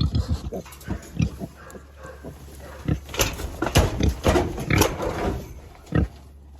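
Piglet squealing over and over, loudest a few seconds in, the distress call of a piglet with its head stuck through a wire fence, with pig grunts among the squeals.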